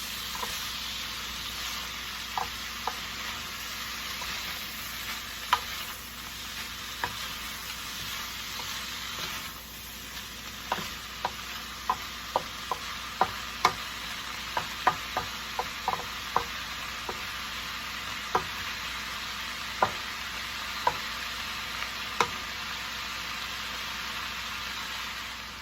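Shredded chicken and mixed vegetables sizzling steadily in a frying pan as they are stirred, a utensil clacking sharply against the pan many times, most often through the middle stretch.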